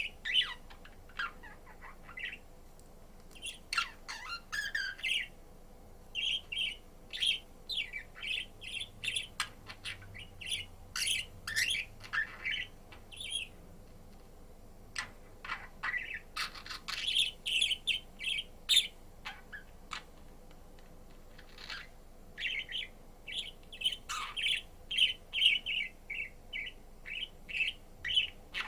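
Budgerigar chirping and chattering in quick bouts of short, high chirps, with a few brief pauses between bouts.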